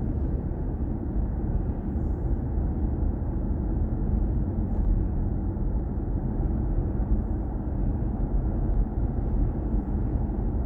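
Steady road and tyre rumble heard inside a BMW i4 M50 electric car cruising, with no engine note.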